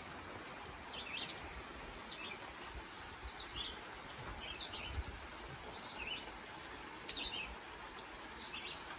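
A small songbird singing short chirping phrases about once a second, over a steady faint outdoor hiss.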